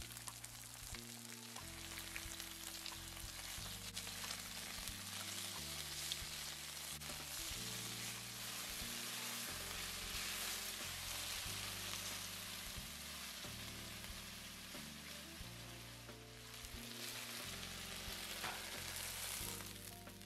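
Marinated chicken pieces sizzling steadily in hot oil in a wok over high heat, searing, with the occasional scrape of a silicone spatula stirring them. Soft background music with low notes runs underneath.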